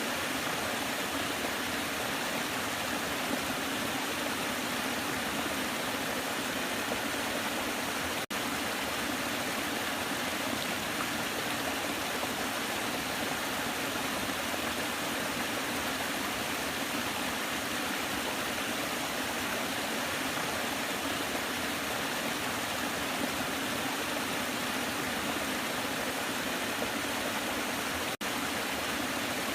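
Waterfall rushing steadily, an even wash of falling water with no change in level, broken twice by a split-second dropout, about eight seconds in and near the end.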